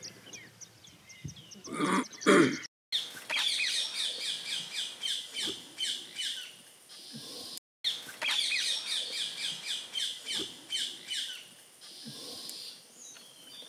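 Wild birds chirping in fast runs of short, falling, high-pitched notes, several a second. A brief louder, lower sound comes about two seconds in, and the sound cuts out for a moment twice.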